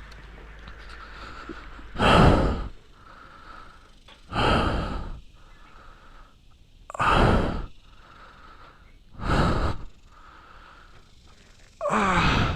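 An injured dirt-bike rider breathing hard into a helmet-mounted mic just after a crash: five heavy, gasping breaths, about one every two and a half seconds.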